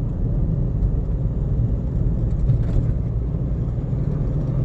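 Steady low rumble of a car driving along a road: tyre and engine noise with no distinct events.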